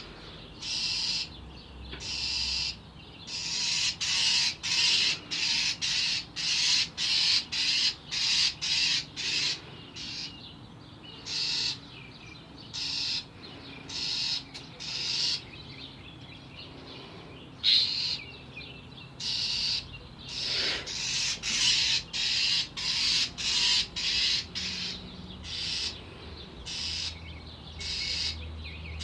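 A bird giving harsh, repeated alarm calls, about two a second in runs with short pauses: scolding and mobbing a cat.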